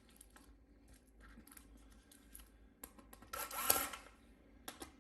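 Faint small clicks of plastic and metal laptop parts being handled, then a brief rubbing scrape about three and a half seconds in.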